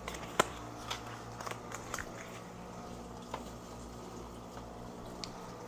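Scattered light clicks and taps of things being handled, the sharpest about half a second in, over a low steady hum.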